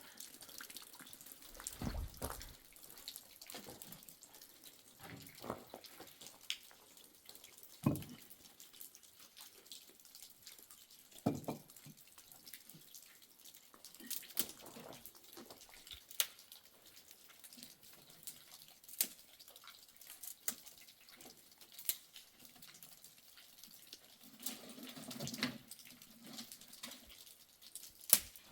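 Water splashing and dripping, with irregular clicks and knocks throughout and a few dull thumps.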